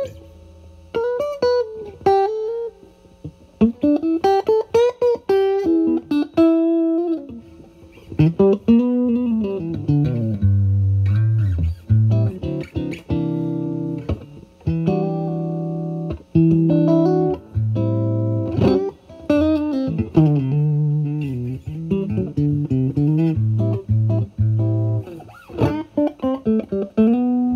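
Fender Stratocaster played through a Vertex Steel String Clean Drive overdrive pedal set to maximum gain, into a Marshall Valvestate amp's clean channel: bluesy lead lines with string bends, broken by low chord stabs.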